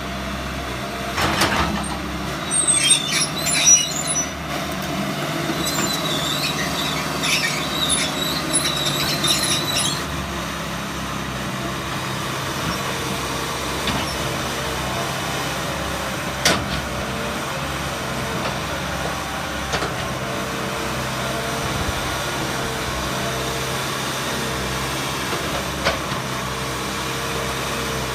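2015 John Deere 160G LC excavator's diesel engine running steadily. A knock comes about a second in, then a stretch of clicks and high squeaks until about ten seconds, and a single sharp knock later on.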